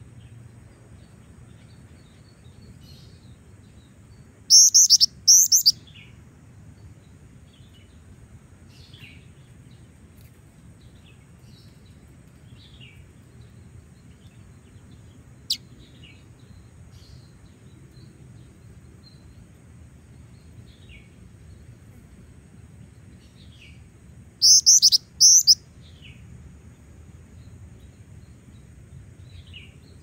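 Female black-winged flycatcher-shrike (jingjing batu) calling: two loud bursts of three or four quick, high, falling chirps, about twenty seconds apart, with faint short chirps in between. A single sharp click comes about halfway through.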